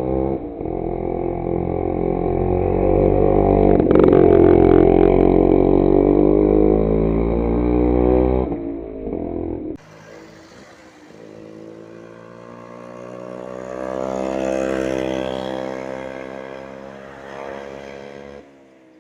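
Motorcycle engine running on the move, its pitch climbing to a peak about four seconds in and then easing off. About ten seconds in there is a cut to quieter engine sound that rises and falls again.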